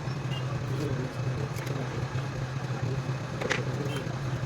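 A machine's steady low hum over a background of noise, with one short sharp sound about three and a half seconds in.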